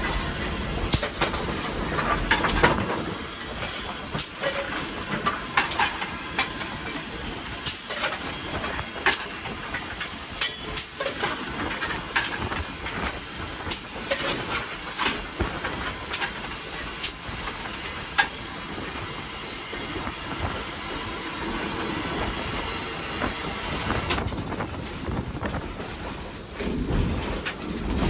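Steam hissing steadily in the cab of steam locomotive No. 81, broken by many irregular sharp clicks and knocks, with a low rumble in the first couple of seconds and again near the end.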